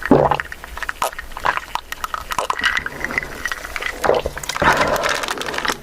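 Eating sounds: wet chewing and mouth noises with many short, irregular clicks.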